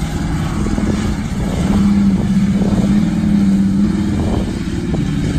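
A vehicle engine running. Its pitch rises about a second in, holds steady, then eases back down near the end.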